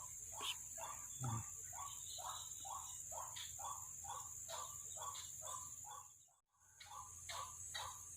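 Animal calls, short notes repeated evenly about three times a second, over a steady high insect drone. A low thump comes about a second in, and the sound breaks off briefly near the end.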